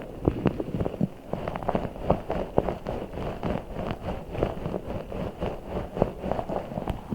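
Giant orbeez water-bead ball being squeezed and handled: quick, irregular squishes and taps, a few each second.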